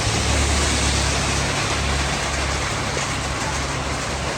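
A vehicle engine idling: a low steady hum under a loud, even hiss.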